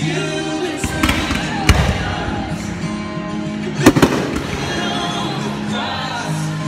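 Fireworks going off over loud music: a few sharp bangs, the loudest about four seconds in.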